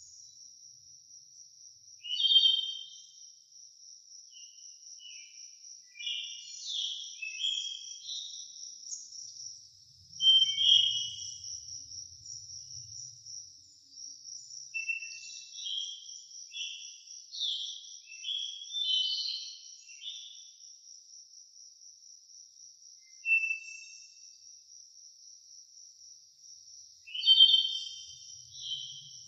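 Forest ambience: a steady, high-pitched pulsing insect trill, like crickets, runs throughout. Birds sing short phrases of chirps over it several times, loudest near the start, about a third of the way in, and near the end.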